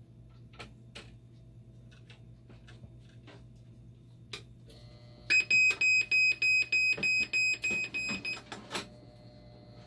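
Dialysis machine's alarm beeper sounding a fast run of about a dozen loud high beeps, four a second, for about three seconds, over a faint steady electronic whine that comes on just before. Light clicks and taps come before it.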